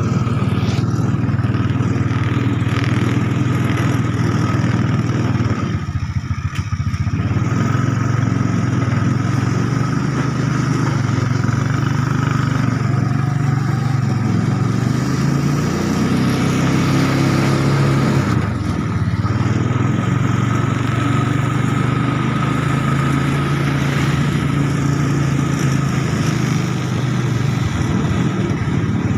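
Three-wheeler motorcycle engine in a home-built mini jeep, running steadily under way. Its note drops briefly about six seconds in and again around nineteen seconds.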